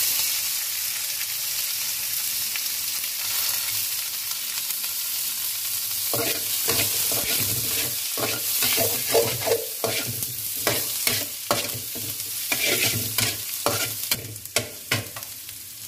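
Onions, garlic, ginger and curry leaves sizzling in hot oil in a metal kadai. From about six seconds in, a metal spatula scrapes and taps against the pan in quick, irregular strokes.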